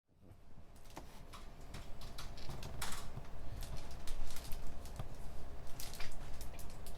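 Computer keyboard typing in an internet cafe: irregular keystrokes and clicks, some sharper and louder than others, over a steady low room hum, fading in at the start.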